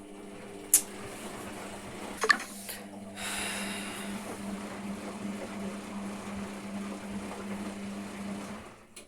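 Hotpoint washing machine in its rinse cycle: a sharp click, then a steady rush of water with a low hum underneath, which cuts off shortly before the end.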